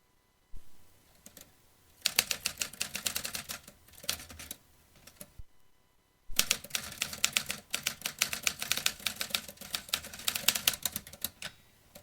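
Vintage typewriter being typed on in two quick runs of keystrokes, the first about two seconds long and the second about five. A single soft knock comes shortly before the first run.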